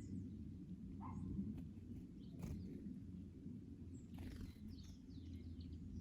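Garden ambience: a steady low rumble of wind with scattered short bird chirps and calls.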